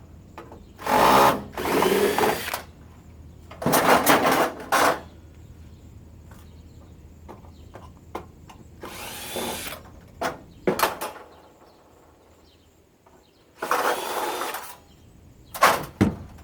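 Cordless drill-driver spinning in repeated short bursts, about seven in all, as screws are backed out of an air purifier's housing.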